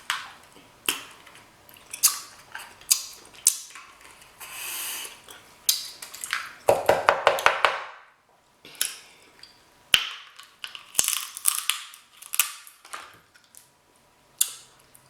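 King crab legs being cut and cracked open: irregular sharp cracks and snips of the shell, with a quick run of crunching strokes lasting about a second near the middle.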